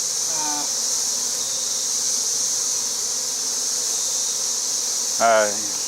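Steady high-pitched insect buzzing around the opened bee colony, with a short spoken phrase near the end.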